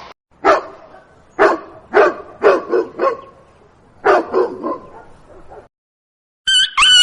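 A dog barking, about seven short barks in uneven groups. Near the end a different, loud, high-pitched drawn-out animal call starts.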